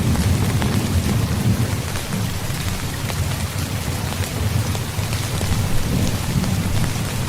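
Heavy rain falling steadily, with many fine drop ticks, over a continuous low rolling rumble of thunder.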